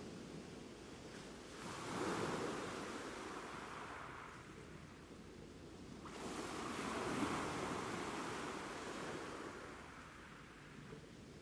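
Ocean surf: two waves break about four seconds apart, each surging in suddenly and then washing out slowly.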